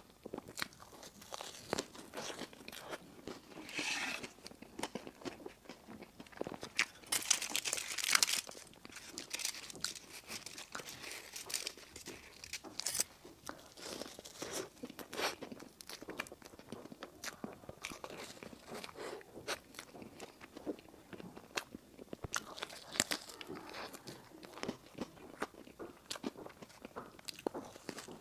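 A person eating dessert pastries close to the microphone: irregular biting, crunching and chewing, with a denser run of crunching about seven seconds in.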